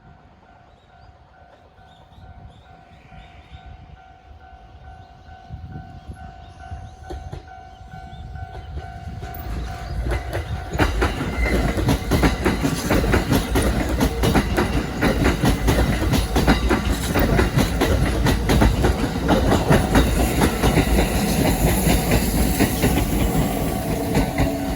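Kintetsu electric train approaching and passing through a level crossing. The noise builds over about ten seconds into a loud rumble, with the wheels clattering over rail joints in a rapid, continuous run of clicks. A steady level-crossing warning tone sounds through the first several seconds, then is covered by the train.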